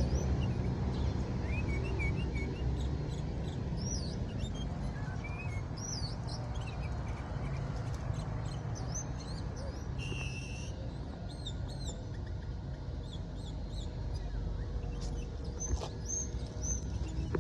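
Sooty-headed bulbul (kutilang) calling: short chirping notes that dip and rise, repeated in scattered bursts over a steady low rumble of background noise.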